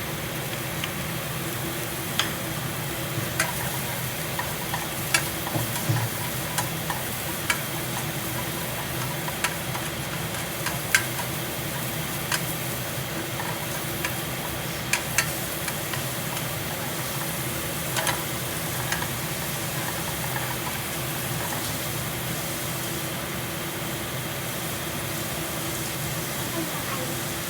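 Onions sizzling in a frying pan, stirred with a utensil that taps sharply against the pan at irregular moments, over the steady hum of a noisy kitchen exhaust fan.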